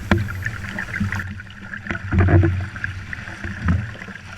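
Water splashing and slapping against the hull of a small sailing dinghy, with a steady rumble of wind on the microphone. Several louder slaps come through; the heaviest is about two seconds in.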